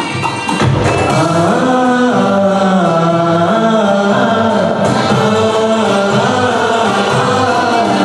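Music: voices singing a slow melody in long held notes, with a choir-like sound. Percussive music with tambourine stops about half a second in.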